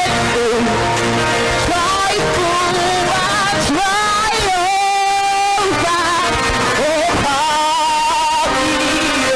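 Choir singing a worship song with live band accompaniment, including guitar, with long held notes.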